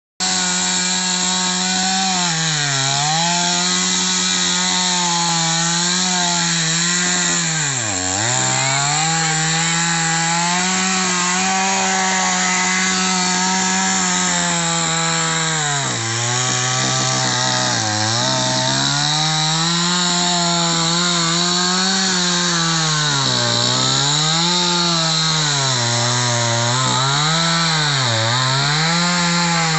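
Chainsaw engine running at high revs while cutting a tree, its pitch dipping and recovering again and again as the chain bites into the wood under load, more often near the end.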